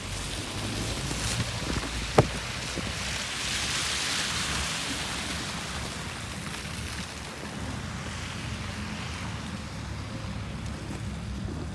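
Snowstorm wind and a low, steady city rumble. A broad hiss swells and fades from about three to seven seconds in, and there is a single sharp click about two seconds in.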